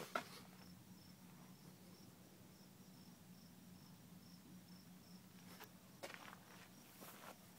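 Faint cricket chirping, a steady high pulse about two or three times a second, with a few footsteps near the start and again near the end.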